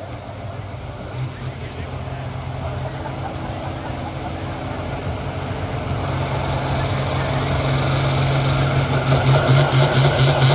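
Diesel pulling tractor's engine running and growing steadily louder, with an even throb setting in near the end.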